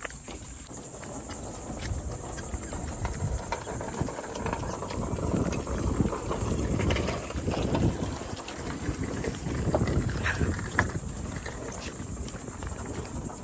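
Footsteps of people walking, uneven and irregular, under a steady high insect drone.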